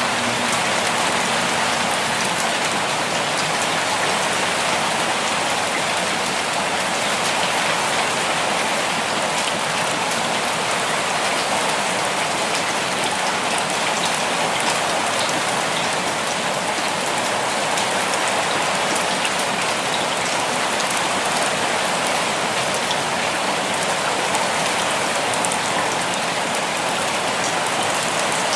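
Steady rainfall: an even hiss of rain with many small drop patters on surfaces.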